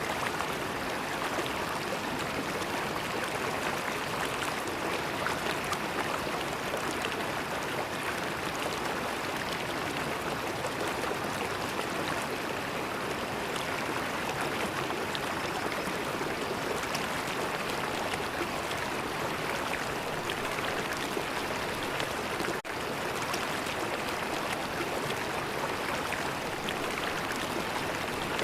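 River water flowing steadily, with a dense patter of small splashes and gurgles. There is one very brief drop-out about three-quarters of the way through.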